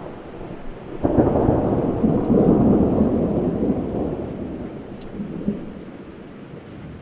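Heavy monsoon rain falling steadily, with a roll of thunder that breaks in suddenly about a second in, is loudest for the next couple of seconds and then dies away.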